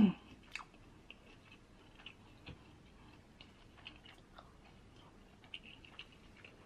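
A person chewing a mouthful of sauced rice close to the microphone: soft, scattered wet mouth clicks and smacks.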